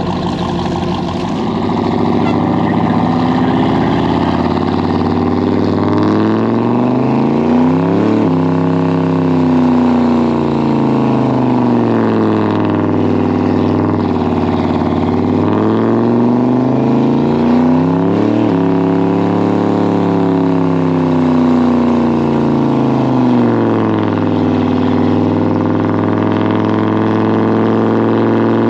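Pickup truck engine held at high revs during a burnout, its pitch rising and falling in long sweeps of several seconds as the throttle is worked.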